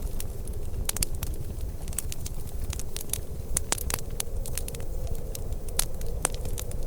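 Fireplace fire crackling, with irregular sharp pops and snaps every fraction of a second over a steady low rumble.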